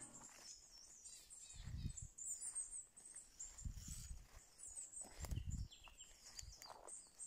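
Small birds chirping high and thin in a forest, with three soft low thumps spread through.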